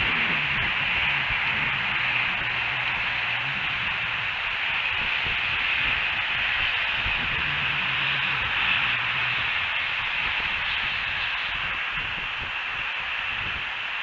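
Steady hiss of outdoor ambience from the nest camera's microphone, with a faint low hum that comes and goes twice.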